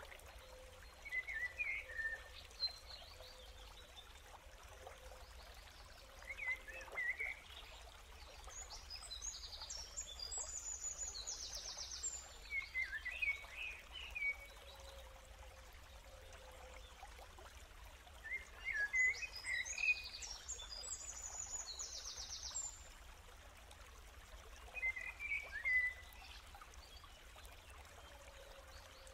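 Birds chirping and trilling in short bouts every few seconds over a faint steady hiss and low hum.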